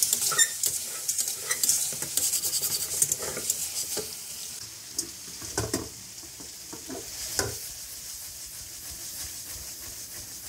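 Chicken, tomatoes and spices sizzling in oil in a wide metal karahi while a metal spatula stirs and scrapes the pan. The scraping is busiest over the first few seconds, with two louder knocks of the spatula near the middle, then the sizzle goes on more quietly.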